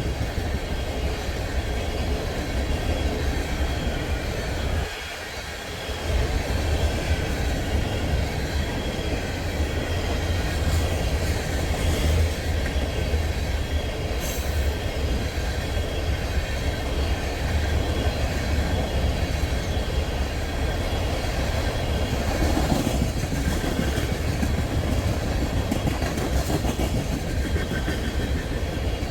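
Freight train of empty crude-oil tank cars rolling past, a steady low rumble of wheels on the rails. It dips briefly about five seconds in, and there is a brief high squeal about fourteen seconds in.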